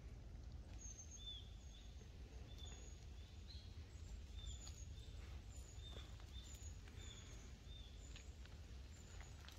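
A bird calling in short, repeated high chirps, about one or two a second, over a faint low outdoor rumble.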